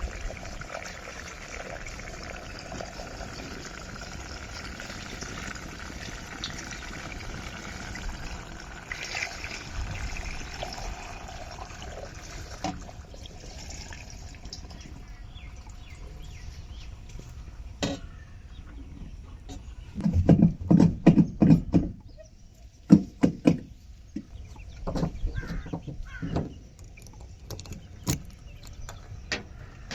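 Diesel fuel pouring into a tractor's tank, a steady rushing trickle that stops about a third of the way in. Then a scatter of sharp knocks and clatters, with a quick loud run of knocks about two-thirds of the way through.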